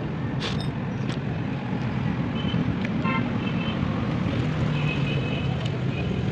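Steady road-traffic rumble with short vehicle-horn toots, one about two and a half seconds in and another about five seconds in.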